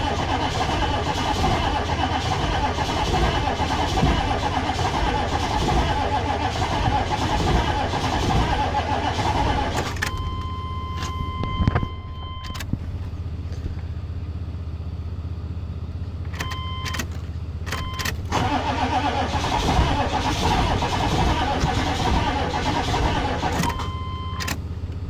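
1995 Chevrolet Suburban's 6.5 L diesel V8 cranking over on the starter without catching for about ten seconds, then stopping, and cranking again for about six seconds later on. Electronic beeps sound in the pauses. It will not fire on a cold start with only two glow plugs working: classic glow plug failure in a 6.5.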